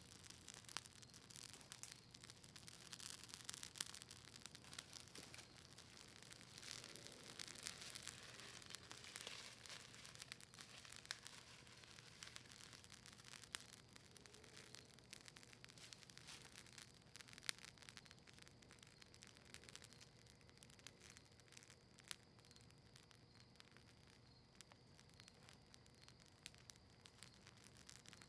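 Campfire of maple wood and cedar leaves crackling: scattered sharp pops and snaps at irregular intervals over a soft hiss.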